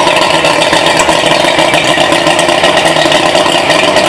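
Boat engine running loud and steady, just after being started.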